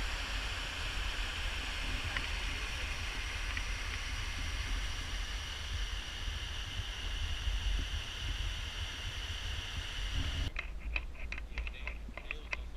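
Steady rushing noise over a low, fluctuating rumble of wind on a GoPro microphone. A little before the end the rushing stops suddenly, giving way to a string of crunching footsteps on a dirt trail.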